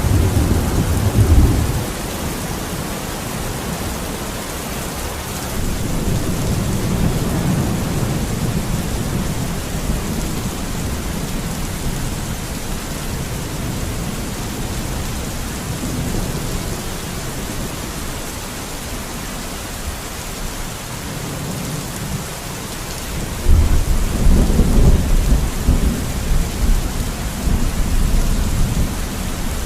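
Steady rain falling, with low rolling rumbles of distant thunder coming and going; the strongest rumble starts about 23 seconds in.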